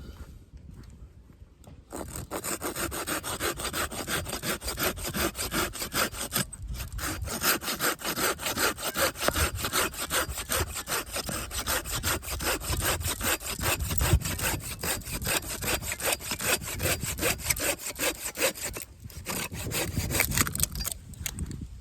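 Hand saw, a Samurai pruning saw, cutting wood in fast, even back-and-forth strokes. The sawing starts about two seconds in, pauses briefly, and stops near the end.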